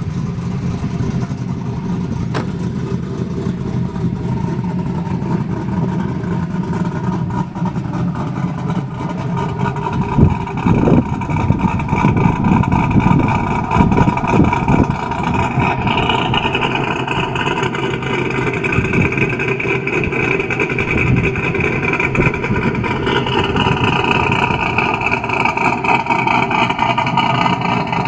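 Cammed LS1 V8 in a Trans Am idling through long-tube headers and a Borla exhaust with a 3/4-inch hole in its plate. The idle has an uneven, loping beat, and a few louder swells come around the middle.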